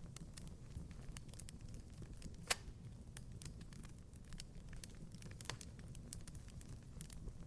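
Wood fire crackling in a fireplace: a low steady rumble of flames with scattered sharp pops and snaps, one louder snap about two and a half seconds in.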